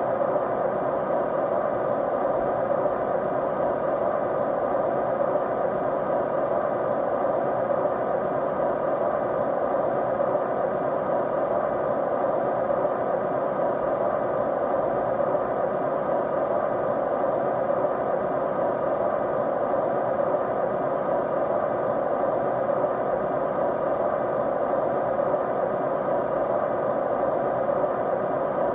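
Steady white noise: an even, unchanging rush, fullest in the lower middle range, with faint steady hum tones running through it.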